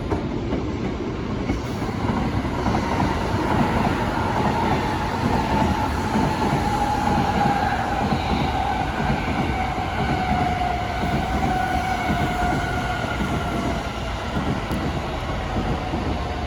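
Electric train running on rails with a steady rumble. Its motor whine, a pitched tone with overtones, slides slowly down in pitch through the middle of the stretch.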